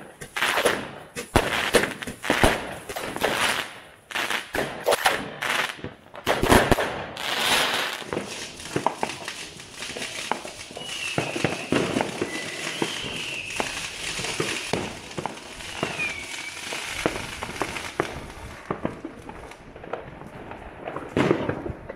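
Fireworks going off: a dense run of bangs and crackling for the first several seconds, then more scattered bangs and pops.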